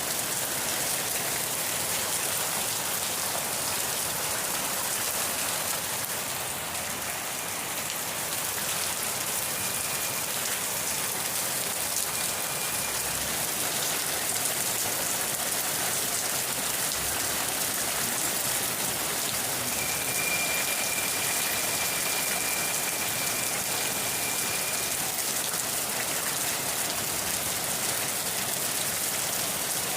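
Steady rain falling, an even hiss of drops. A faint thin high tone comes and goes a few times, the longest lasting about five seconds past the middle.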